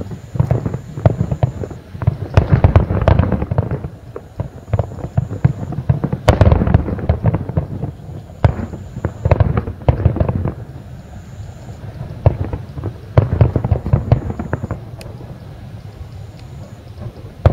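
Aerial fireworks bursting: many overlapping sharp bangs and crackles that come in several waves, with quieter stretches between.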